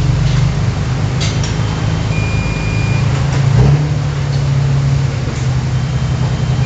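Heavy diesel earthmoving machinery running steadily with a low drone. A steady high beep sounds for about a second near the middle, and a few sharp metallic clanks come through.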